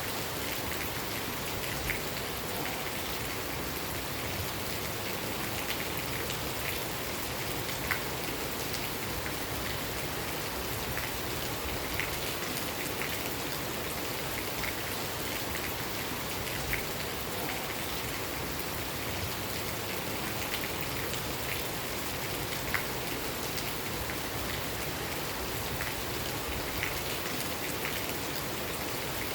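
Steady rain falling at night, an even hiss with individual drops ticking sharply on a surface every second or two.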